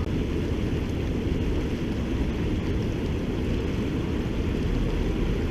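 Wind rumbling on the microphone: a steady, choppy low rumble with little high-frequency content.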